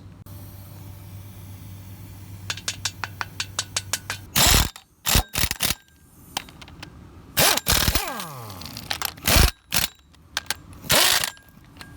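Bolts being tightened on an engine: a ratchet wrench clicking quickly for over a second, then several loud bursts of a power tool, one winding down in pitch.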